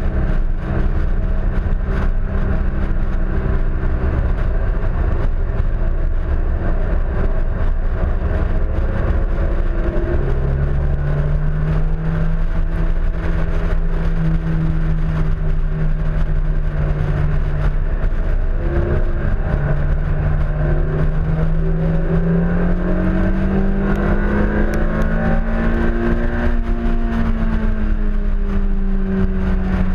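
Honda S2000's four-cylinder engine pulling hard on track, its note jumping up about a third of the way in, dipping, then climbing slowly and easing off near the end as the driver works the throttle. A heavy rumble of wind buffets the fender-mounted microphone throughout.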